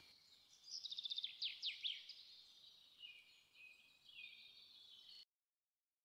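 Faint bird chirping: a few quick, high, falling tweets about one to two seconds in, then weaker calls, before the sound cuts off to silence a little after five seconds.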